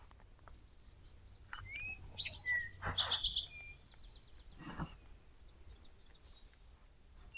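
Songbirds chirping in woodland: a cluster of short calls and a rising whistle, with quick repeated notes, about two to three seconds in. Two short noises, the first overlapping the calls and the second about five seconds in, stand out among them.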